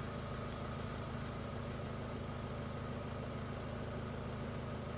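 Ford Focus 2.0 TDCi Duratorq diesel engine idling steadily, with a faint steady high tone over the engine note.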